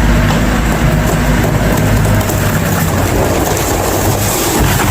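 A heavy engine running steadily, with a rattling, clattering noise over it that grows busier about halfway through.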